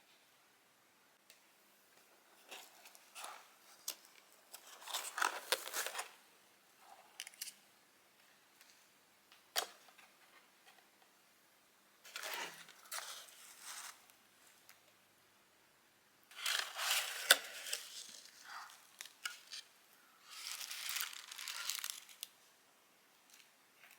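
Packaging being handled: paper or plastic wrapping crinkled and torn in several separate bursts of rustling, with a few sharp clicks, the loudest about seventeen seconds in.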